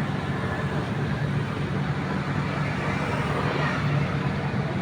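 Excavator's diesel engine running steadily with a low, even hum, over a constant noisy rush.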